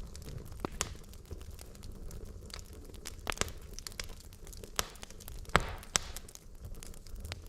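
Wood logs burning in a fireplace, crackling with irregular sharp pops over a low steady rumble. The loudest pops come a little after halfway through.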